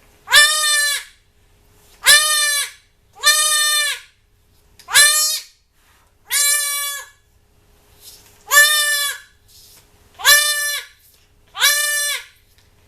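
Goat kid, an 8-day-old doeling, bleating loudly and repeatedly, about eight high cries a second or two apart, while her horn buds are burned with a hot disbudding iron.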